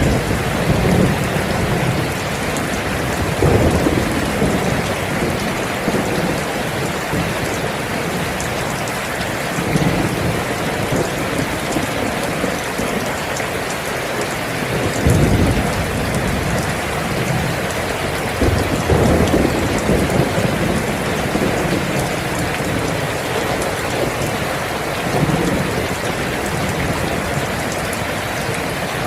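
Steady heavy rain, with low rolls of thunder swelling up several times, the strongest about halfway through.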